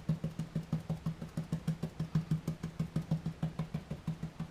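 A coarse stippling brush dabbing rapidly and lightly on model railway ballast and ground cover, dry-brushing green paint: a steady run of soft, low taps, about seven a second.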